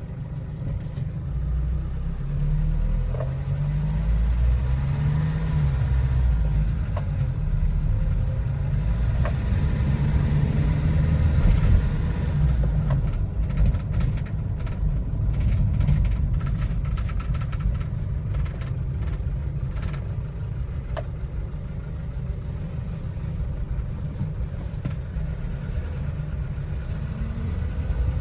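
Kia Bongo III truck engine and road noise while driving, the engine note rising and falling with speed in the first part. A run of sharp clicks or rattles comes about halfway through.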